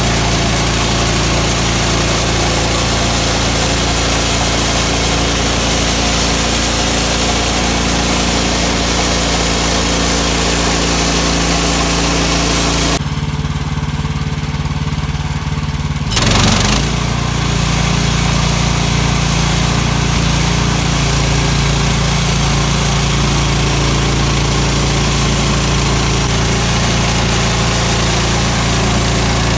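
Sawmill engine running steadily at speed while spruce is milled. About 13 seconds in, the higher part of the sound drops out abruptly for about three seconds, leaving only the low engine note. A brief louder burst follows, then the full running sound resumes.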